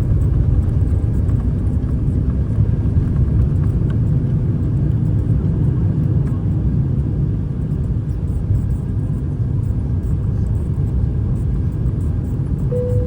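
Steady low rumble of an Airbus A350's engines and airflow heard from inside the passenger cabin. A steady tone comes in near the end.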